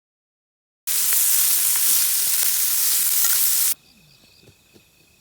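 A loud, steady sizzling hiss with a few small pops in it, starting about a second in and cutting off suddenly near the end, followed by faint high chirping.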